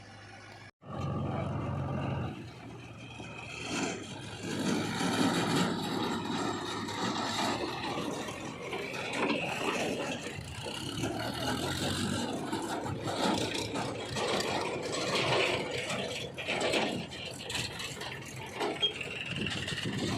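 JCB 3DX backhoe loader's diesel engine running under load, with irregular scraping and rattling as the bucket works through mud.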